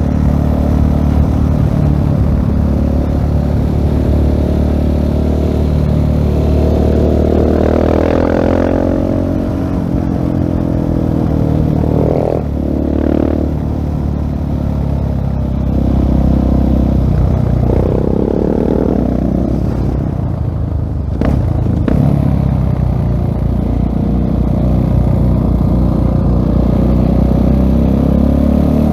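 2016 Husqvarna 701 Supermoto's single-cylinder engine through a LeoVince full-system exhaust, riding along with the revs rising and falling several times as the rider accelerates, shifts and backs off.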